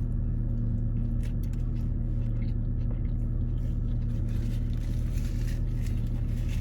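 A steady low hum runs throughout, with faint short clicks and smacks of someone chewing food.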